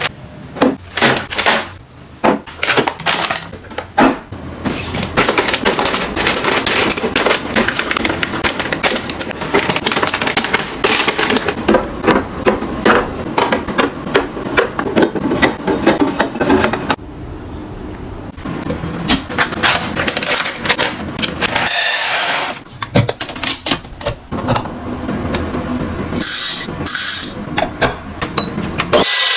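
Dense, irregular clicking, tapping and crinkling of packaging and containers being handled, quieter and sparser for the last several seconds.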